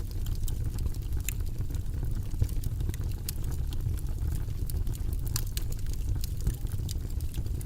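Steady, low rumbling white-noise background track, with faint, irregular light clicks scattered over it.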